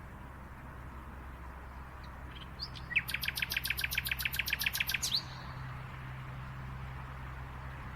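A songbird gives a few short chirps, then a fast, dry trill of about eight sharp notes a second lasting about two seconds, over a steady background hiss.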